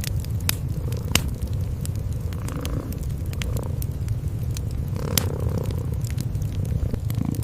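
Cats purring in a steady, low, fluttering rumble, with a wood fire crackling over it in sharp snaps and pops, a couple of them louder.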